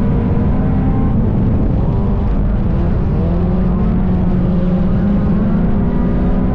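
Dirt-track race car engine running hard without a break, its pitch rising and falling a little with the throttle.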